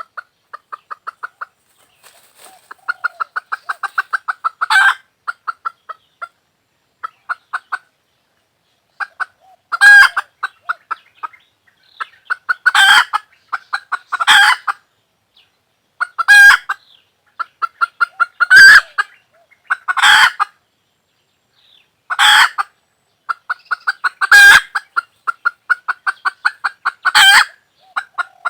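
A hen cackling: quick runs of short clucks, each ending in a loud drawn-out squawk, repeating every two seconds or so.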